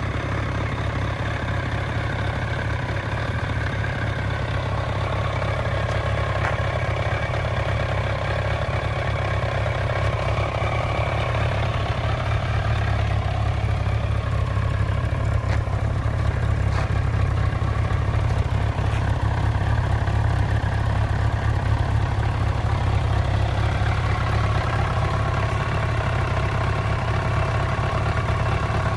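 BMW 1200 GT motorcycle engine idling steadily.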